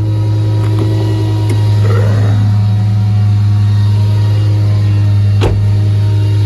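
Ford bucket truck's engine running at a steady raised idle with the PTO engaged, a loud, even drone. A single sharp click or knock sounds about five and a half seconds in.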